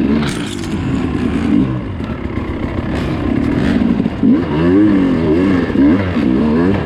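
Dirt bike engine revving up and down over and over, the throttle blipped in quick bursts in the second half.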